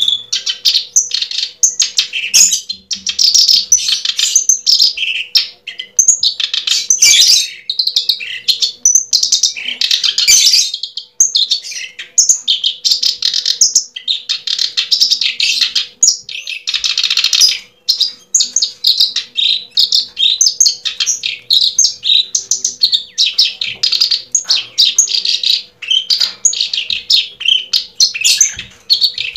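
Birds chirping and twittering nonstop in quick high notes, over a faint steady hum.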